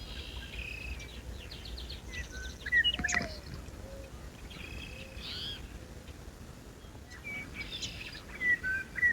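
Morning birdsong: several songbirds chirping and trilling over one another. A ring-necked pheasant gives a loud harsh crow about three seconds in, and again near the end.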